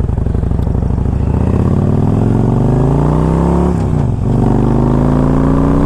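2007 Harley-Davidson Electra Glide's V-twin engine accelerating under way, its note rising, dipping briefly about four seconds in as it shifts up a gear, then rising again.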